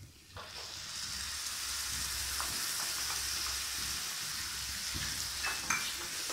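Tomato purée poured into a hot pan of fried onion and spice masala, sizzling strongly from about half a second in. A wooden spatula scrapes and ticks against the non-stick pan near the end as the purée is stirred in.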